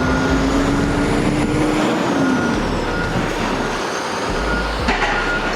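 A heavy vehicle's engine running, its note rising slightly then dropping about two seconds in, with a reversing alarm beeping at a regular pace.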